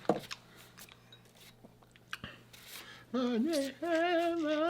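Soft clicks and crunches of crab-leg shell being cracked and eaten, then about three seconds in a person starts singing, holding long wavering notes.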